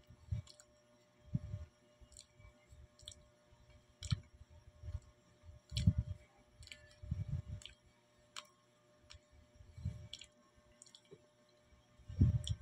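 Close mouth sounds of a person chewing a soft banana: irregular wet clicks and smacks, with soft low thuds in between.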